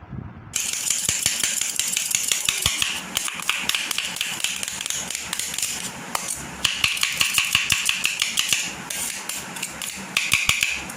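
A spoon clicking and scraping quickly and repeatedly against a plate while a chopped chicken, cabbage and onion filling is mixed with mayonnaise. The sharp clicks come in quick runs, with louder peaks a few times a second.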